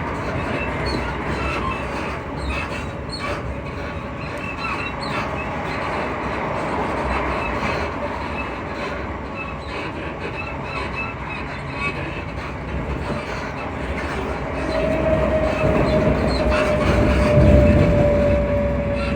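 Inside a Class 334 electric train carriage: the steady rumble of wheels on the track, with many small repeated squeaks and creaks from the carriage suspension. About fifteen seconds in, a steady whine starts and slowly falls a little in pitch, and the rumble swells briefly near the end.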